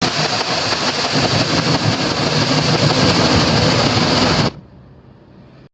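An engine running loudly and steadily, cut off suddenly after about four and a half seconds.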